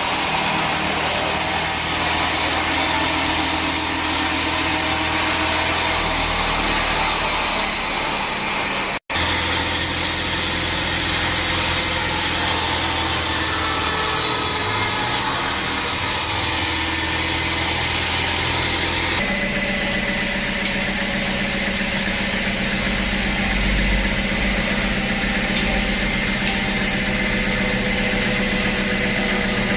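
Sawmill band saw cutting through teak, a steady hiss of the blade in the wood over the hum of the machine's motor. The sound drops out for an instant about nine seconds in. From about two-thirds of the way through the hiss thins and a steady motor hum comes to the fore.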